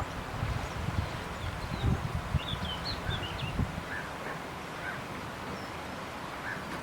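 Small birds chirping: a quick run of high twittering notes a couple of seconds in, then a few single call notes, over gusts of wind buffeting the microphone.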